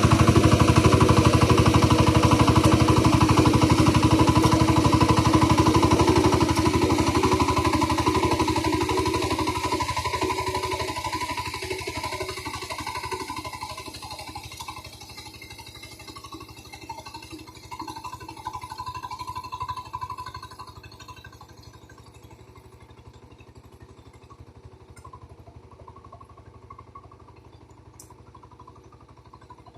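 Engine of a ploughing machine running steadily, fading away over about twenty seconds until it is faint.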